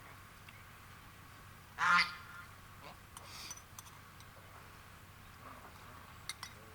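A duck quacking once, a short loud call about two seconds in, with a fainter call a little later; a few light clinks near the end.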